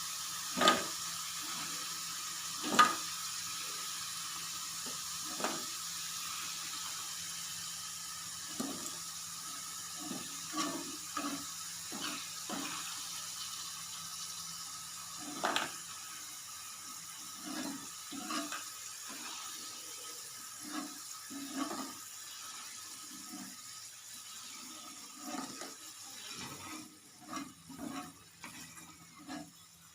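Pieces of yam deep-frying in oil, a steady sizzle that slowly quietens, with repeated clinks and knocks of a spoon against the pan.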